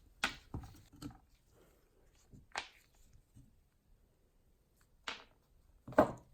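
A few sharp clicks and knocks of small hard objects being handled on a work surface: a quick cluster of three in the first second, single ones at about two and a half and five seconds, and the loudest knock near the end.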